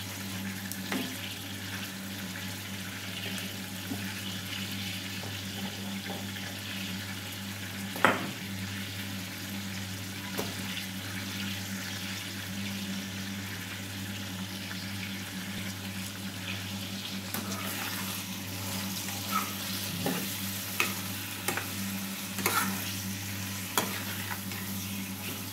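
Chicken pieces frying with onions and spices in ghee in a steel kadhai: a steady sizzle, with a steady low hum underneath. A single sharp knock comes about eight seconds in, and in the last third a metal spatula clinks and scrapes against the pan as the chicken is stirred.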